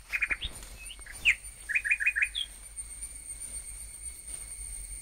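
Small bird calling in quick runs of short, sharp chirps, about four in a row near the start and another four around two seconds in, over a steady high-pitched ringing tone.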